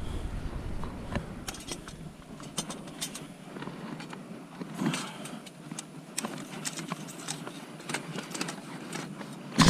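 Scattered light clicks and knocks with soft rustling, the sound of a PVC flue pipe and tools being handled, with a louder sound starting right at the end.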